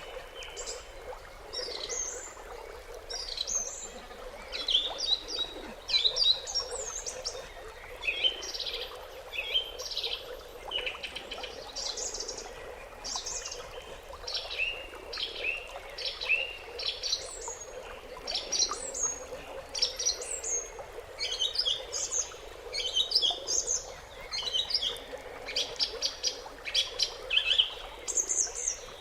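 Songbirds chirping and twittering in quick, short notes, several calls overlapping throughout, over a faint steady background hum.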